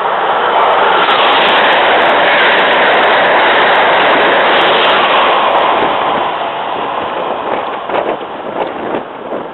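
Amtrak Acela Express high-speed trainset passing close at speed: a loud rushing rumble of wheels and air that holds for several seconds, then fades as the train moves away, with sharp crackling clicks near the end.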